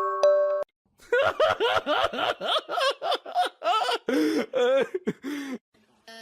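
A short run of chime-like music notes breaks off, and about a second in a person bursts out laughing in a fast run of short rising-and-falling bursts that trail off after about four seconds.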